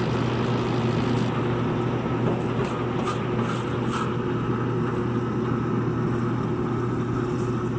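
Condenser tumble dryer running empty, its motor humming steadily and the drum turning. The owner says this drum starts out too slowly and won't spin with a load in it.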